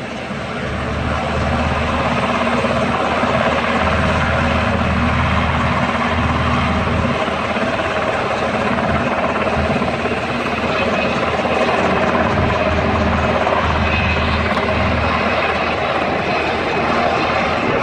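Military helicopter's rotor and engine running loud during take-off, with the rapid thudding beat of the blades over a steady engine whine. It grows louder about a second in and then holds steady.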